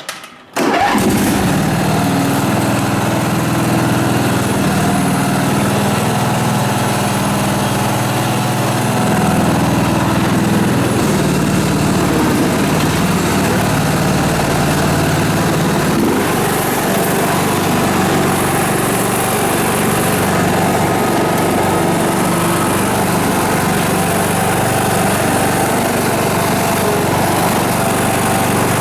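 Simplicity garden tractor's engine running steadily, coming in abruptly under a second in, a little louder from about ten seconds in.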